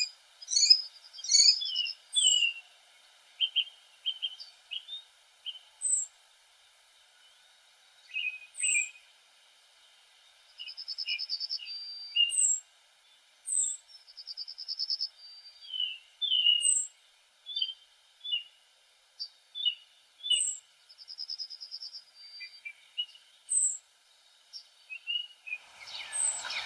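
Songbirds chirping and calling: scattered short, high chirps and whistled notes, with a few buzzy trills about a second long and brief quiet gaps between calls.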